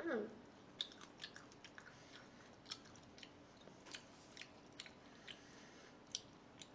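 Close-miked chewing during eating: soft, irregular mouth clicks and smacks, about two to three a second.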